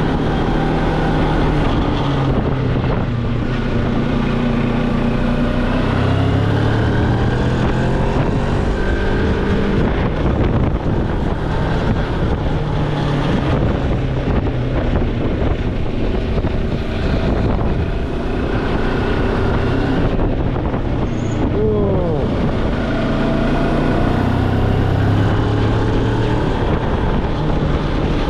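Moto Morini X-Cape's parallel-twin engine running under way, its pitch rising and falling with throttle and gear changes, under steady wind noise on the microphone.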